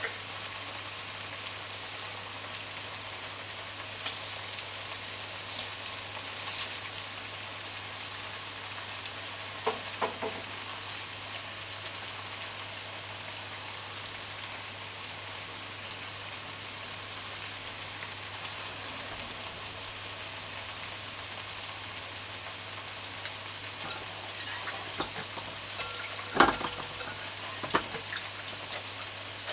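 Slices of ripe plantain frying in hot oil in a pot: a steady sizzle, broken by a few short sharp clicks, the loudest a little before the end.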